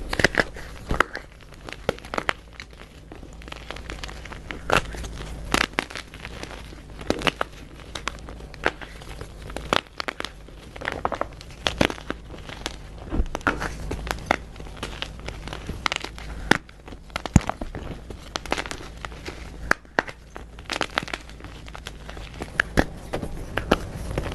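Dyed gym chalk being crunched and crumbled, giving irregular sharp crackles and crunches several times a second, over a faint steady low hum.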